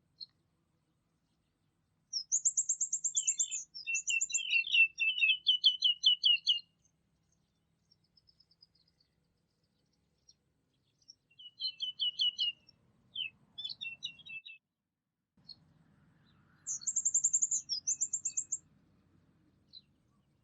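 A songbird singing in three phrases of rapid, high repeated notes: a long one about two seconds in, another around eleven seconds, and a shorter one near seventeen seconds.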